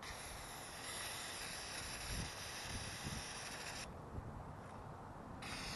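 Aerosol can of Gumout cleaner spraying to flush out a removed PCV valve: a steady hiss lasting about four seconds that cuts off sharply, then a second spray starting about a second and a half later.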